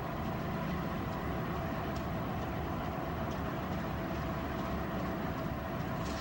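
Freight train running by: a steady rumble with a few faint held tones and occasional light clicks.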